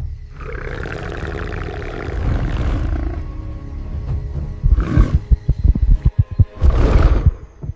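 A big cat growling: a continuous low growl that breaks into a run of quick rough pulses about halfway through, with louder roars near the end, over music.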